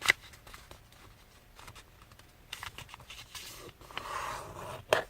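A sheet of thin paper being folded and creased by hand: soft rustling and scraping in patches, with a sharp click at the start and another near the end.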